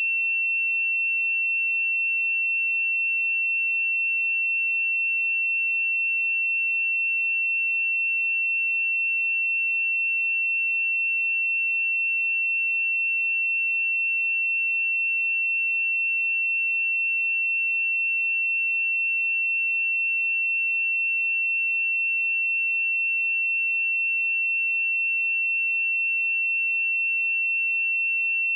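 A single steady, high-pitched pure tone, unchanging in pitch and loudness throughout: an electronic sine-wave test tone.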